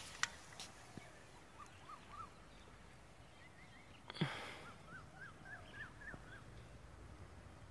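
Faint bird chirping: two runs of short, quick chirps. A single knock about four seconds in is the loudest sound.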